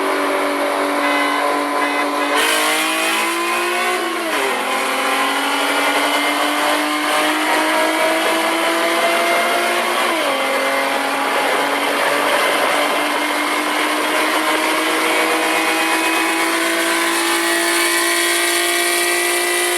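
Ford 3.7 L V6 engine of a Mustang pulling hard at full throttle in a race. Its pitch climbs steadily through the gears, dropping at upshifts about four seconds in and again about ten seconds in.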